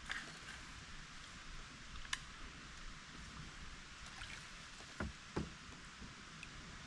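Faint kayak sounds on a creek: a steady low hiss of water with a sharp tick about two seconds in and two dull knocks about five seconds in.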